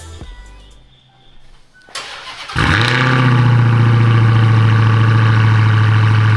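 Dodge Challenger V8 started through its new exhaust: a click about two seconds in, then the engine fires about half a second later with a brief flare of revs and settles into a steady idle.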